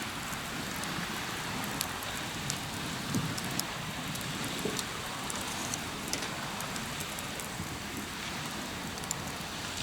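Wood campfire crackling, with scattered sharp pops over a steady background hiss.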